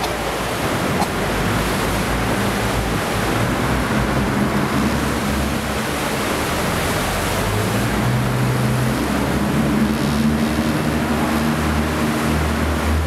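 Sightseeing boat under way: a steady rush of water and wind, with the boat's engine running low and steady beneath.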